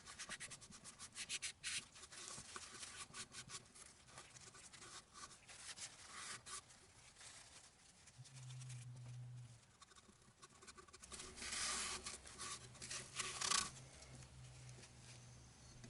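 Sand sealer being rubbed onto a turned wooden piece: quick, faint rubbing strokes, busiest in the first two seconds and again a little past the middle. A low steady hum comes in about eight seconds in and returns later.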